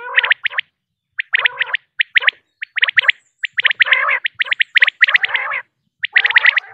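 Female common quail calling: rapid clusters of short, sharp chirping notes with brief silent gaps between the bursts.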